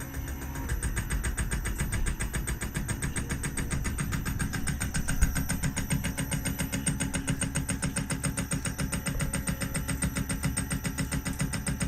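Machine tool running with a fast, even pulsing, typical of a milling cutter taking a steady cut, with one short tick about five seconds in.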